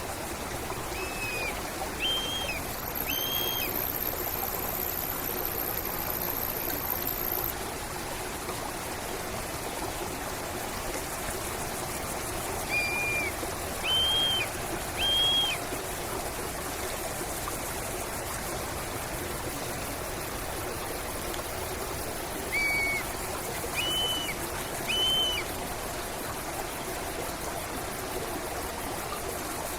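Steady running water of a stream, with a bird calling a phrase of three short notes, repeated three times about ten seconds apart. A thin, high steady tone sounds for about five seconds near the start.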